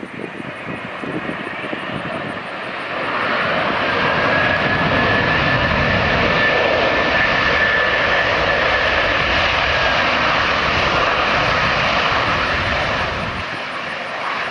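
Jet airliner's engines passing by, swelling to a loud, steady rush about three seconds in with a high whine on top, then fading near the end.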